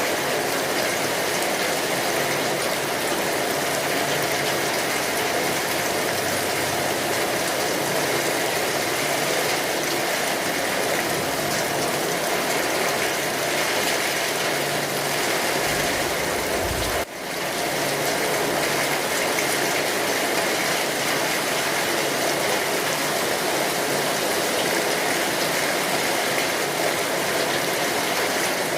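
Steady rain, a dense, even hiss of falling drops that dips briefly about two-thirds of the way through.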